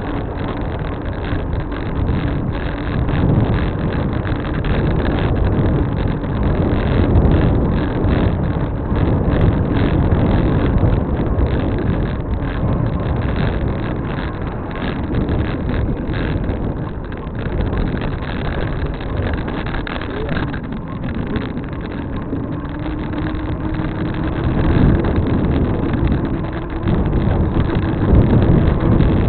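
Steady rumble of wind and road noise on a microphone riding along with a bicycle, with a motor vehicle's engine hum rising slightly in the last several seconds.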